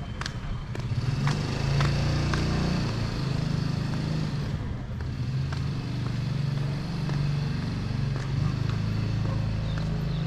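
A motor vehicle's engine running close by, a low hum that gets louder about a second in and then holds steady.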